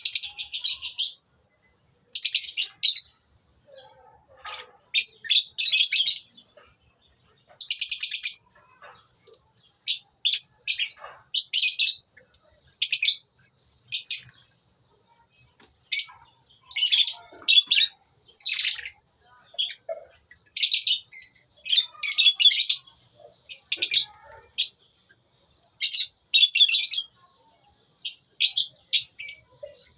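A colony of lovebirds chirping: bursts of high-pitched calls, many in a row with short pauses between them.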